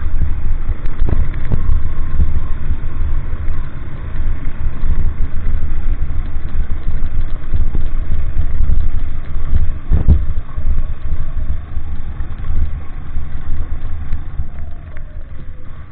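Moving vehicle: a steady low engine rumble mixed with road and wind noise, with a sharp knock about ten seconds in.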